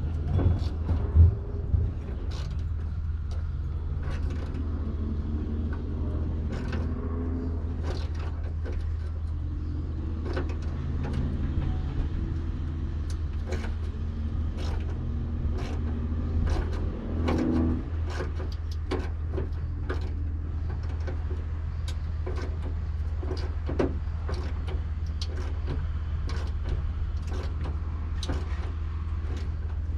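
Wrench clicking and clinking on the hood-hinge bolts of a pickup truck as they are worked loose, about one sharp click a second through the second half, with a louder knock about a second in. Underneath runs a steady low rumble.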